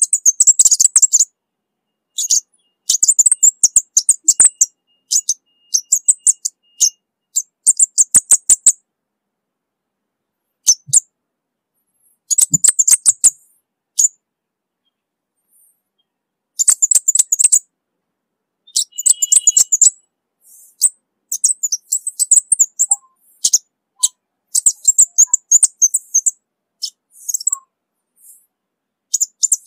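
Orange-bellied flowerpecker calling: short bursts of rapid, very high, sharp ticking notes, repeated again and again with pauses of a second or two between bursts.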